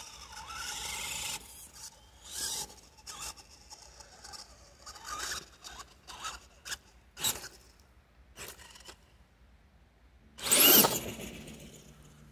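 Redcat Everest-10 RC mega truck's electric motor whining in short bursts of throttle as it churns through mud. The loudest and longest burst, its pitch rising and falling, comes about ten and a half seconds in.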